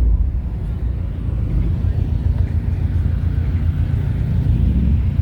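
Car engine running at low speed, a steady low rumble.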